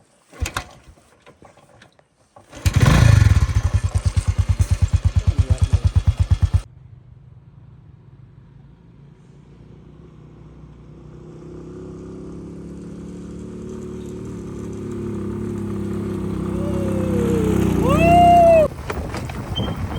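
A small engine: a loud, fast, even chugging for about four seconds that stops abruptly, then a steady engine drone that grows slowly louder and cuts off near the end.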